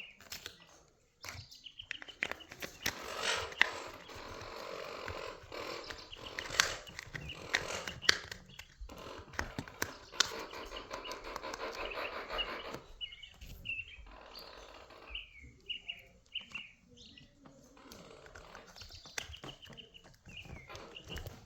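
Clicks and rustling of hand work on a Traxxas Slash RC car, strongest in the first half. Birds chirp in short repeated calls through the quieter second half.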